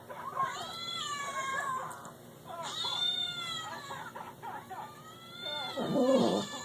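Cat yowling in long, bending, rising-and-falling calls, two drawn-out yowls with a short gap between them, followed near the end by a louder, lower-pitched sound.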